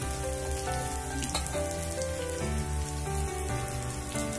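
Sabudana vadas sizzling as they shallow-fry in hot oil in a kadhai, a steady crackling hiss with a couple of faint clicks. Soft background music with held notes plays underneath.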